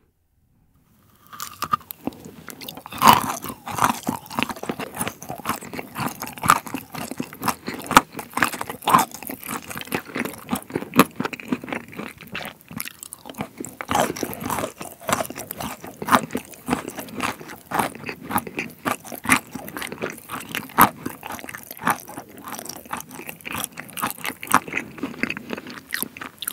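Close-up chewing of a bite of white chocolate rocky road, with many sharp crunches from the nuts in it. It starts about a second in and keeps a dense, irregular crunch throughout.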